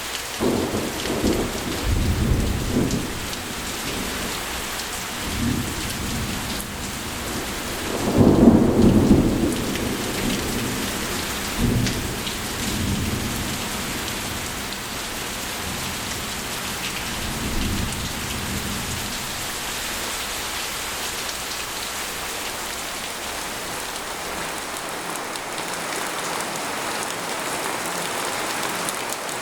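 Steady heavy rain falling on a tent, with thunder rumbling several times, the loudest rumble about eight seconds in; the rumbles die away and only the rain is left for the last ten seconds or so.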